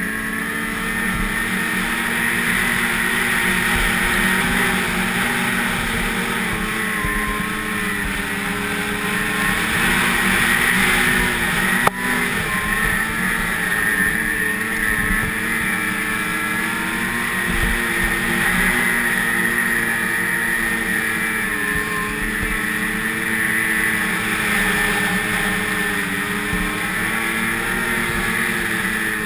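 Snowmobile engine running steadily at speed, its pitch wavering up and down a little. A single sharp click about twelve seconds in.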